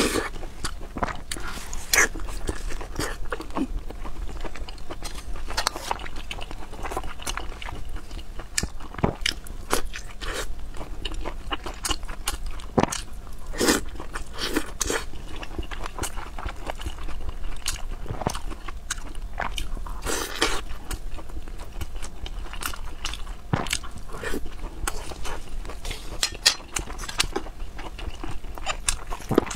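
A person chewing and biting soft, saucy braised pork and rice up close: wet mouth sounds with many irregular smacks and clicks throughout.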